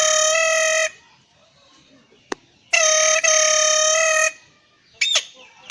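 A boy imitating a truck's air horn with his voice: two long, steady, horn-like blasts with a short gap and a click between them, then two short, sharp squeaks near the end.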